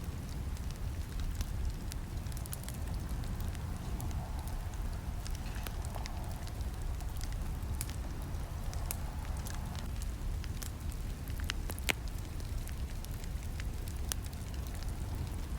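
Wood campfire crackling: irregular sharp pops and snaps over a steady low rumble of burning flames, with one louder pop about twelve seconds in.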